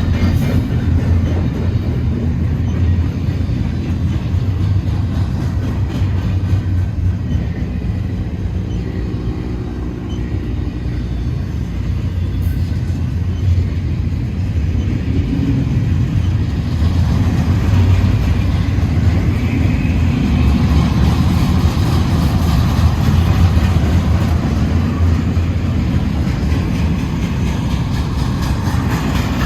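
Intermodal stack-car freight train rolling past: a steady, heavy low rumble of the train on the rails, somewhat louder in the second half.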